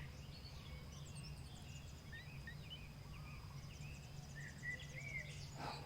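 Dawn chorus of several songbirds, faint: scattered short chirps and whistles, with a quick high thin trill in the second half. A steady low hum runs beneath.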